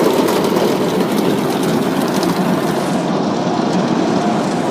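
Automatic car wash running, heard from inside the car: a steady rushing noise of water spray and machinery against the body and windows.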